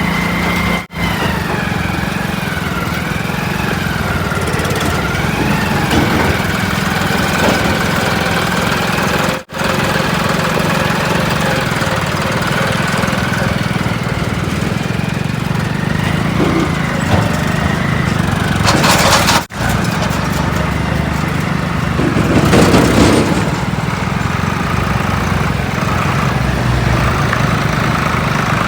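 Diesel engines of earthmoving machinery running steadily under load, with a whine that wavers in pitch over the first several seconds. There are short rough noise bursts a little past halfway and again about two-thirds through, and the sound breaks off for an instant three times.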